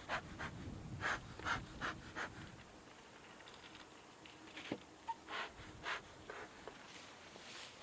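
A person breathing heavily close to the microphone: a series of short, noisy breaths in irregular clusters.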